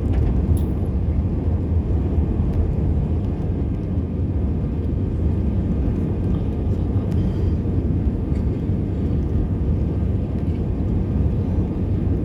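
Jet airliner's engines and airflow heard from inside the passenger cabin during take-off and initial climb: a steady, even low rumble.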